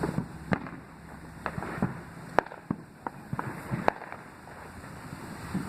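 Fireworks going off: a run of sharp, irregular bangs and cracks, several every second, the loudest about two and a half seconds in.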